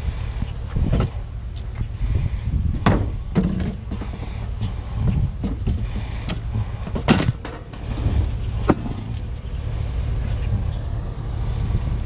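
A vehicle engine running steadily, with scattered knocks and clanks over it, the loudest about seven seconds in and another near nine seconds.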